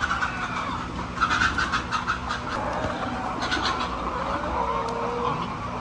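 Chickens clucking and squawking in wavering calls, with short bursts of rapid clicking and a steady low hum underneath.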